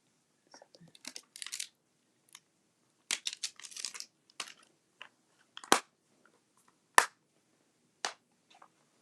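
Paper and card being handled on a craft table: short rustles and crinkles, with three sharp clicks in the second half.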